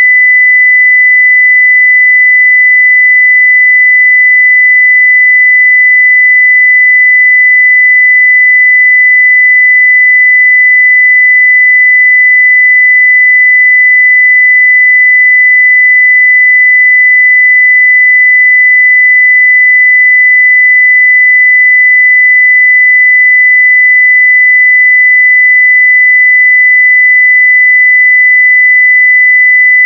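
A pure 2 kHz sine-wave test tone at full level, held perfectly steady with no change in pitch or loudness.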